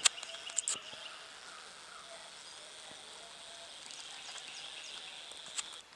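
Faint outdoor background: a steady high-pitched chorus with a few faint chirps, a couple of sharp clicks in the first second, and the whole sound cutting off just before the end.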